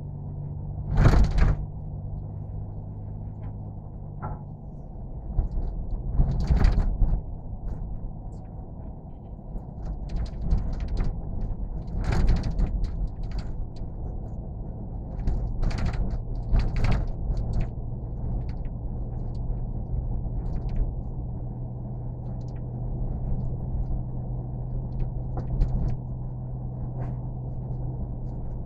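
Steady vehicle rumble with a low hum, as heard from inside a moving car, broken by a dozen or so short knocks and thumps.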